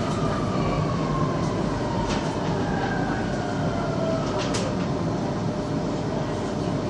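Underground metro train running, heard from inside the car: a steady rumble with an electric motor whine that falls in pitch as the train slows, and a couple of sharp clicks from the wheels on the track.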